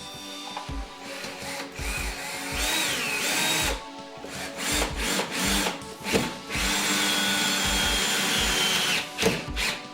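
A power tool, drill-like, running in a few bursts over background music with a steady beat. The longest runs come about a third of the way in and again near the end, with a whine that dips in pitch in the first and holds steady in the second.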